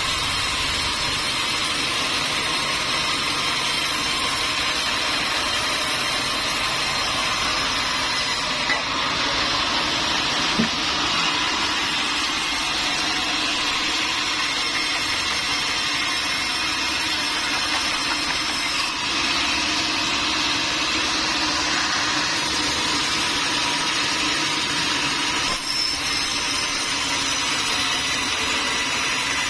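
Sawmill machinery running steadily, a dense, even mechanical noise, with a couple of faint knocks near the middle.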